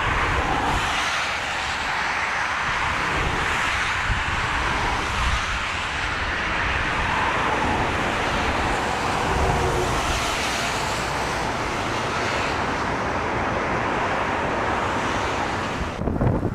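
Jet airliner on a landing approach: steady engine noise spread across a wide range of pitches. It breaks off abruptly near the end.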